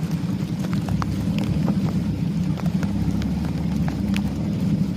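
Boat motor running steadily with a low drone, with scattered sharp ticks of raindrops over it.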